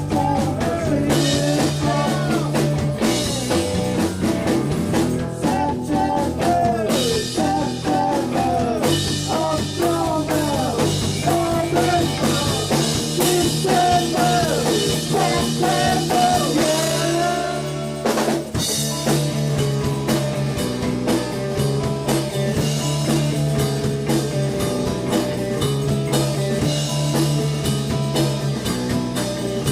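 Live rock band playing a song on drum kit, guitar and bass, with singing or a bending lead line over the first half. The melody breaks off briefly about eighteen seconds in while the band plays on.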